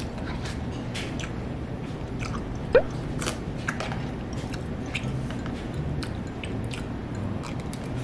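Close-up chewing and mouth sounds of eating, with a plastic spoon clicking and scraping against a plastic lunch-box tray as the last rice and meat are scraped up. One short rising squeak about a third of the way in is the loudest sound, over a low steady hum.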